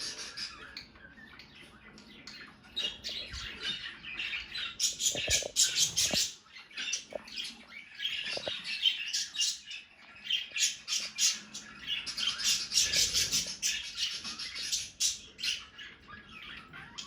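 Budgerigars chattering: fast runs of high chirps, clicks and squawks in bursts, with short lulls about a second in and again just before the middle.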